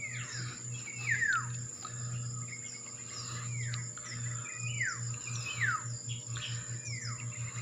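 A bird calling: a repeated short whistled note that slides steeply downward, about once a second. A steady high insect drone runs underneath.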